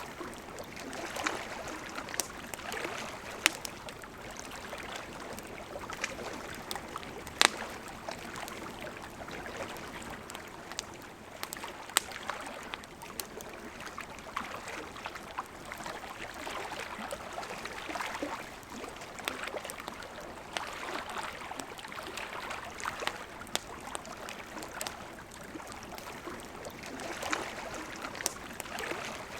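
Campfire crackling, with irregular sharp pops, the loudest about seven seconds in, over the steady rush of a flowing river.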